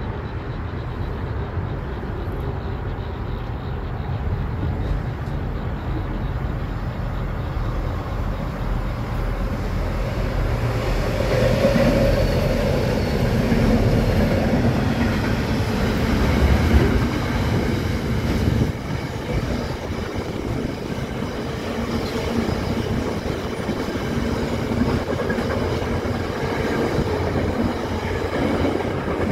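BL-class and 81-class diesel-electric freight locomotives approach and pass, their engines growing louder from about ten seconds in. A long rake of loaded container flat wagons then rolls by with a steady rumble.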